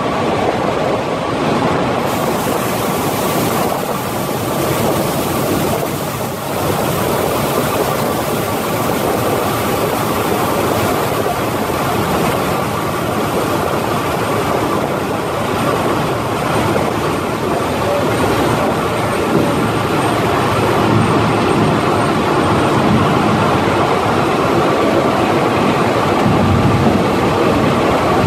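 Historic passenger train hauled by E-626 and E-428 electric locomotives running steadily along the line, heard from an open carriage window: a continuous rush of wheel-on-rail and running noise.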